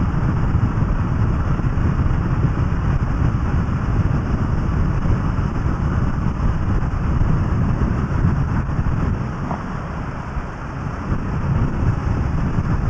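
Kawasaki ER-6f (Ninja 650R) parallel-twin motorcycle cruising at steady speed, its engine blended with wind and tyre roar on the camera microphone. The sound dips slightly about ten seconds in.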